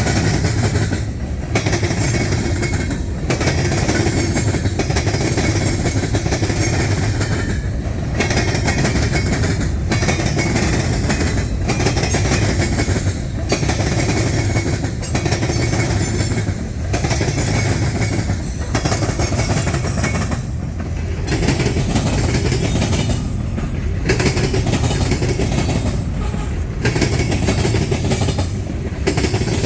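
Freight train cars rolling past, wheels clattering over the rail joints in a steady loud rumble that dips briefly every second or two.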